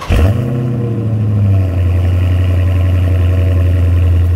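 Dodge Challenger engine firing up with a sudden loud burst, flaring to a fast idle, then about a second and a half in dropping to a steady low idle. It is a start-up that puffs smoke from the tailpipes, which the owner presents as the reason for an oil catch can.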